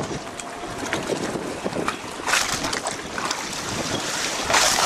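Wind buffeting the microphone in irregular gusts, over the wash of choppy water around the docked boats.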